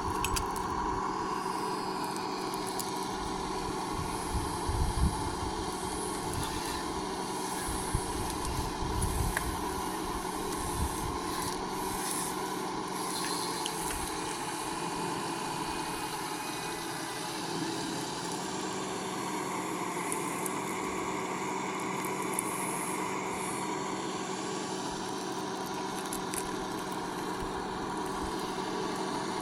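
Small electric motors and gearboxes of radio-controlled construction models whining steadily at a fixed pitch, with a few low thumps around four and nine seconds in.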